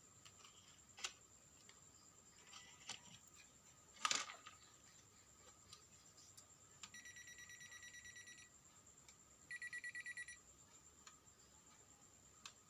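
A few faint clicks of small objects being handled, then two electronic buzzing beeps: the first lasts about a second and a half, and a shorter, louder one follows about a second later.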